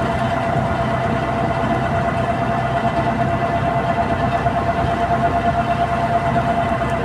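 A motor running steadily, with a constant whine held over a low rumble.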